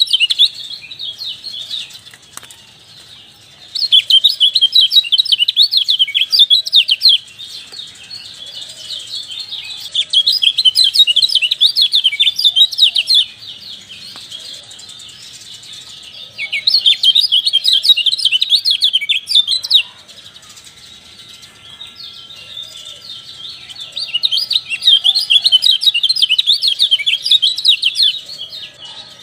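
Kecial dampuk, a white-eye songbird, singing in repeated bursts of rapid high chirping, each about three seconds long, with pauses of a few seconds between them.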